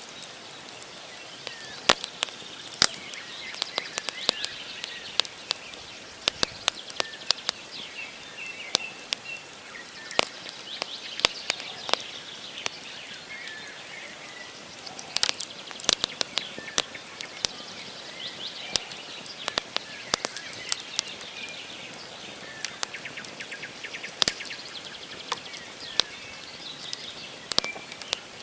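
Wood campfire crackling, with many irregular sharp pops from the burning logs over a steady hiss of flames. Small birds chirp faintly now and then behind it.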